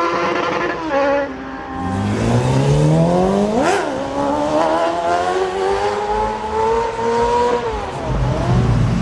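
Sport motorcycle engine accelerating hard through the gears. The engine pitch climbs steeply, drops sharply at a gear change partway through, climbs again more slowly, then falls off near the end.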